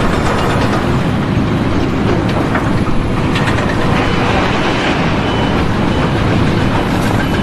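Loud, steady mechanical rumble of heavy machinery running.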